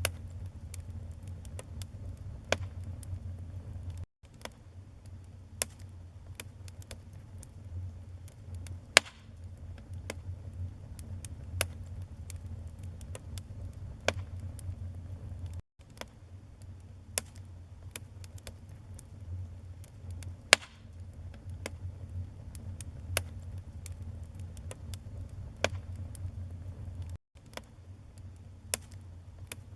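Wood fire burning in a fireplace: frequent sharp crackles and pops of burning logs over a steady low rumble, with two louder pops about nine and twenty seconds in. The sound cuts out for an instant three times, about every eleven seconds, at the joins of a looped recording.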